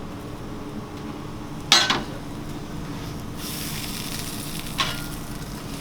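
Chicken frying in hot oil, the sizzle swelling up about halfway through. Two sharp clanks of kitchen metalware come over it, the first the louder, about three seconds apart.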